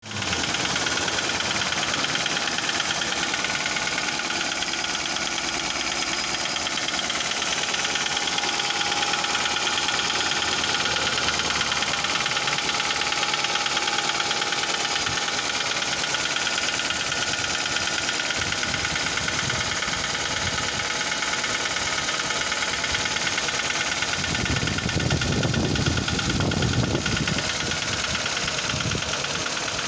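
Toyota Camry V50's 2AR-FE 2.5-litre inline-four running steadily with a fast, even ticking knock, the unexplained knock the owner is asking about. A louder low rumble joins in for a few seconds near the end.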